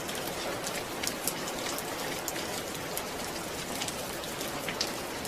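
Steady rain falling, with scattered sharper drops pattering on a surface.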